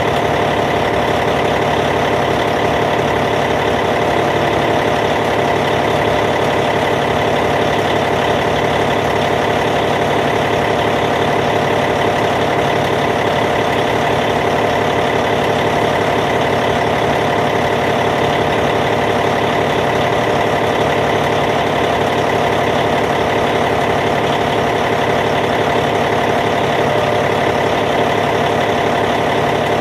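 Caterpillar C15 diesel engine in a D8T bulldozer idling, steady and unchanging.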